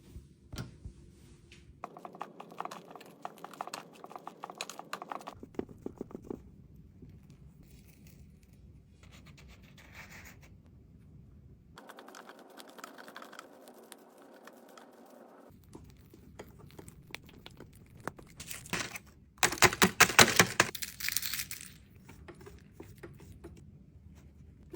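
Kitchen handling sounds while a cake is prepared: packaging crinkling and tearing, and things scraping, in several separate stretches. The loudest is a dense rustling burst about twenty seconds in.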